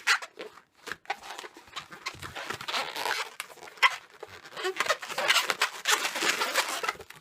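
Latex twisting balloons squeaking and rubbing against each other as they are twisted and shaped. There are two longer stretches of squeaky rubbing, with a few sharp squeaks in between.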